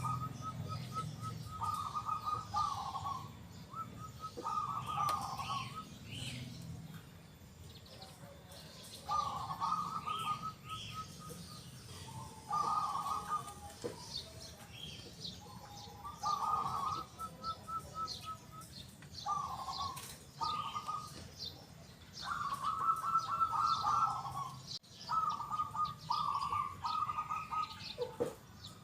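Zebra dove (perkutut) singing its cooing song: about eight phrases of rapid, clipped cooing notes, each one to three seconds long and repeated every few seconds. Small birds chirp faintly in the background.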